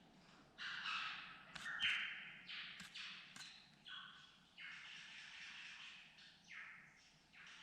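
Satin bowerbirds giving a run of short, harsh, rasping calls one after another, with one longer drawn-out call in the middle.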